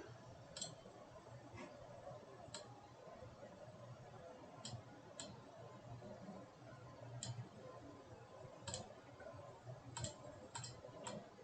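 Faint computer mouse clicks, about ten of them at irregular intervals, over a quiet low hum.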